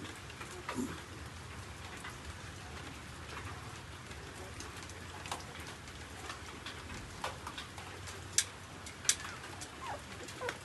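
Newborn puppies suckling at their mother: scattered small wet clicks and smacks, with two sharper clicks about eight and nine seconds in. Near the end come a few brief, faint falling squeaks.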